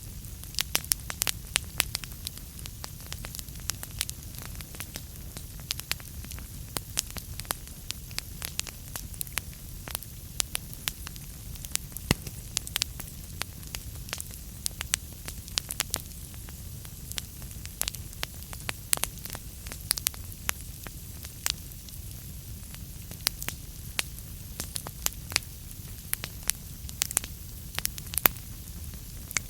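Wood fire burning in a fireplace: logs crackling with irregular sharp pops, several a second, over a low steady rumble of the flames.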